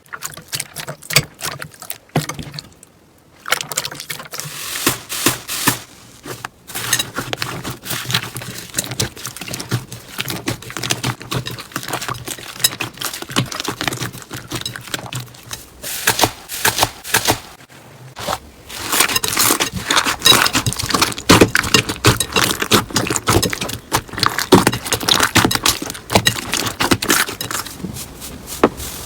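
Slime being squeezed, poked and stretched by hand: a dense run of sticky clicks, pops and crackles, with a few short pauses, growing louder in the last third.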